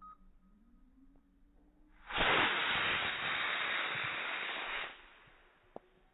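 Quest MicroMaxx micro model-rocket motor firing: a steady hissing rush begins about two seconds in, lasts about three seconds, then fades. The launch is slowed down in slow motion, so the burn sounds drawn out and dull.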